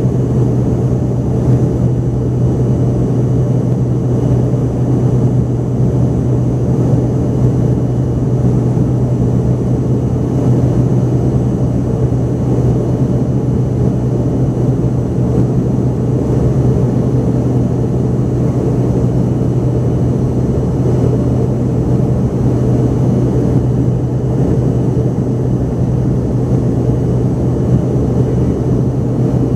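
Cabin noise inside an Embraer ERJ-145XR regional jet in the climb, its rear-mounted Rolls-Royce AE 3007 turbofans giving a loud, steady, unchanging drone with a deep hum and a faint high whine.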